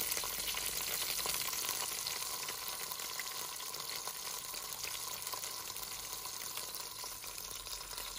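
Zucchini sizzling and crackling in hot olive oil in a pot as they brown and seal. The sizzle is steady and eases slightly over the few seconds.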